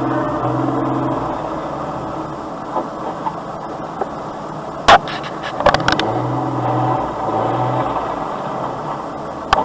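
A vehicle running with steady road and engine drone. About halfway there is one loud sharp bang, then a brief clatter of smaller knocks, typical of a collision impact.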